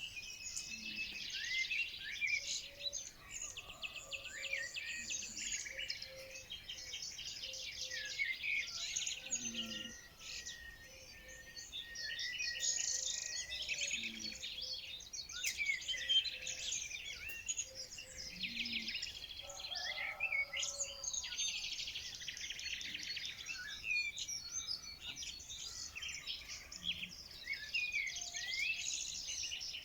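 A chorus of many small songbirds chirping and singing over one another, a dense, unbroken twitter of high, quick notes.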